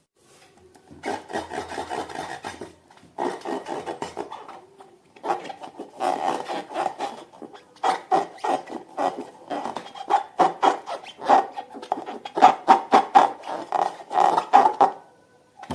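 Rubber balloons being rubbed and squeezed, making runs of rapid squeaking and rasping strokes. The runs start about a second in, pause briefly a few times, then run almost without a break through the second half and stop just before the end.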